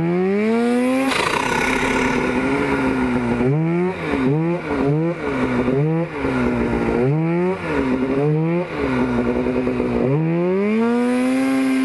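Turbocharged Polaris Pro RMK snowmobile's two-stroke engine revving under throttle, with a run of quick rev-ups and drops in the middle and a long climbing rev near the end, showing how the Silber turbo kit responds to the throttle.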